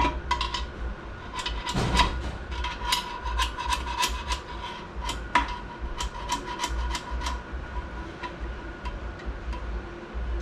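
Metal transmission parts clicking and clinking as they are worked into a Ford AOD transmission case: an irregular string of sharp metallic taps, some ringing briefly, thickest in the first seven seconds and thinning out after.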